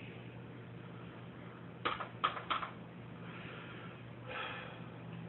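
Room tone with a low steady hum, and three quick knocks or clicks close together about two seconds in.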